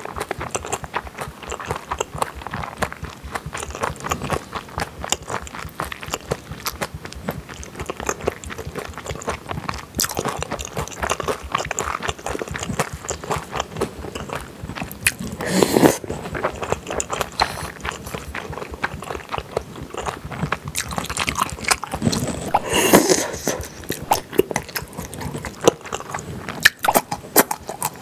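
Close-miked eating sounds: wet chewing and smacking of soy-marinated baby octopus, shrimp and rice. There are two louder mouth sounds, one just past the middle and another about four fifths through.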